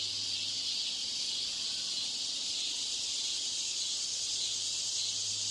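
Steady high-pitched hiss with a low steady hum underneath, the deliberately degraded background noise of a test recording made to imitate a poor exam-room broadcast system.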